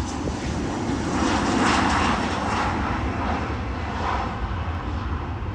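Airplane engines running loud and close, a steady rushing noise over a low rumble that swells about two seconds in and then eases slightly.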